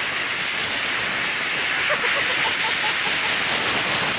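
Loud, steady hissing noise that cuts in and out abruptly, with a few faint short tones about halfway through.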